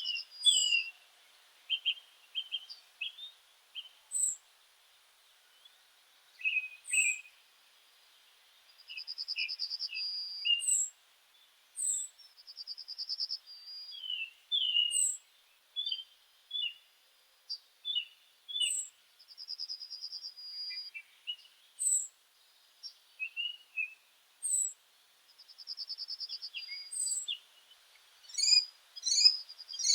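Songbirds singing: quick high chirps and whistles, with a buzzy trill about a second and a half long repeated four times, every four to six seconds.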